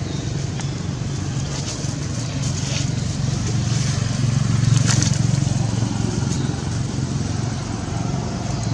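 Steady low drone of a motor vehicle engine running close by, swelling louder about halfway through, with a few scattered crackles and clicks.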